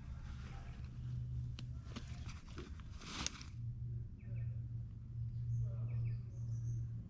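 Short, scattered bird chirps in the bush over a steady low hum. A few sharp clicks and a brief rustle sound in the first half.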